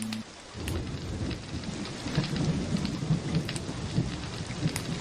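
Wood fire in a fireplace crackling, with many sharp irregular pops over a low, steady rumbling hiss. A held music chord cuts off just after the start.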